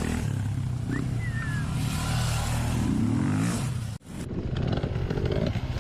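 Dirt bike engine running steadily, rising in pitch as it revs about three seconds in. The sound cuts off abruptly about four seconds in, then a rougher, choppier engine note takes over.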